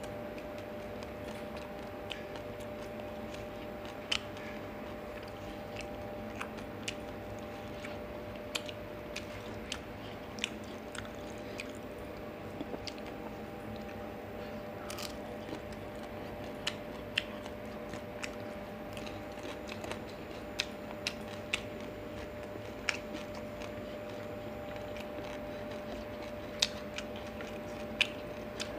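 Close-miked eating sounds of fried fish and rice eaten by hand: scattered sharp clicks and smacks of chewing, over a steady low hum.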